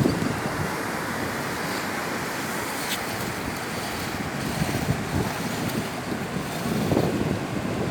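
Ocean surf washing on the beach, a steady rush, with wind buffeting the microphone in low gusts, strongest about seven seconds in.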